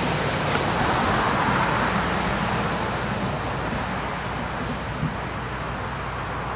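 CSX freight train rolling away, its rumble and wheel noise a steady, even noise that slowly fades.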